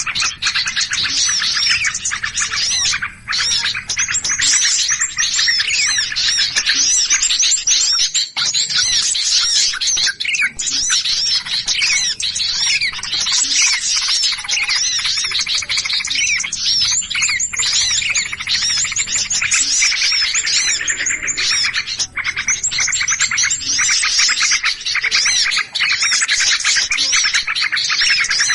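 Dense, continuous chorus of many small birds chirping and chattering rapidly over one another, the agitated, noisy calling used as a lure sound to draw in small birds.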